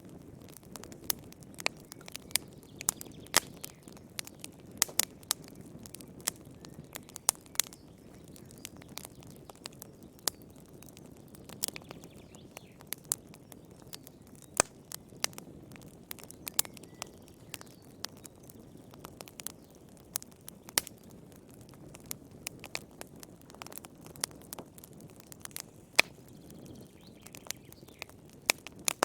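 Fire in a fireplace crackling: irregular sharp pops and snaps, some louder than others, over a low steady rush of the flames.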